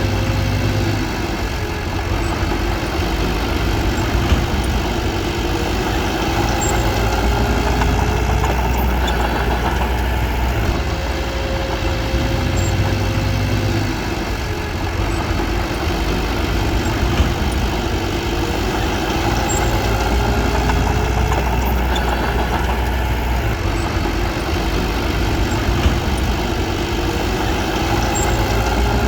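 Diesel engine of a small crawler bulldozer running steadily, its pitch drifting slowly up and down as it works. Three sharp clicks stand out over the drone, about 4, 17 and 26 seconds in.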